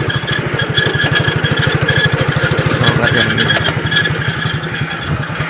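Motorcycle engine running at a steady low speed, its firing heard as a rapid, even putter.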